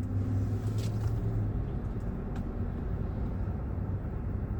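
Steady road and engine drone inside a moving car's cabin: a low, even hum with a couple of faint ticks.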